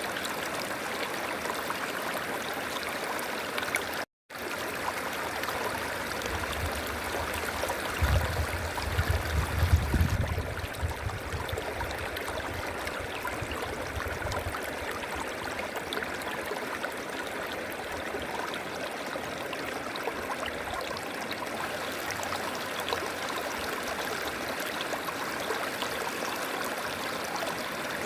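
River water flowing and rushing steadily. The sound drops out completely for a split second about four seconds in, and a low rumble swells up for several seconds near the middle.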